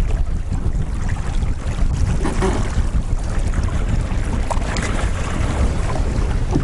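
Wind buffeting the microphone in a steady, fluttering low rumble, with faint scattered splashes of water.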